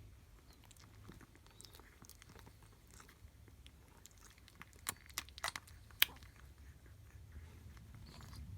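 A litter of young puppies moving about: faint scratching and small clicks throughout, with a few sharper clicks about five to six seconds in.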